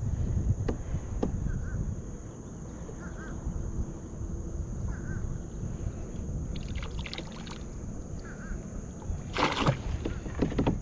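Water sloshing and splashing around a kayak as a crab line is hauled in, with a few light knocks early on and a louder splash near the end.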